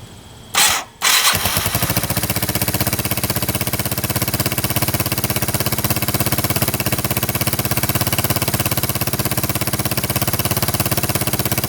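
A 1985 Yamaha 225DX's single-cylinder four-stroke engine starts about a second in, after a short burst of cranking, then runs steadily with an even, fast beat. It fires right back up after its cam sprocket bolt has been refitted and torqued down.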